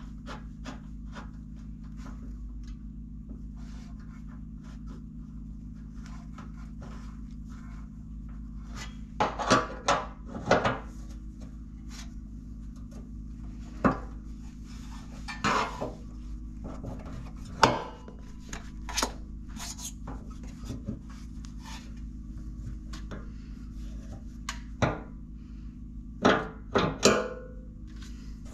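Scattered clinks, knocks and scrapes of hand tools and small metal parts being handled while a repaired valve with a new gasket is fitted to a Briggs & Stratton generator. A steady low hum runs underneath.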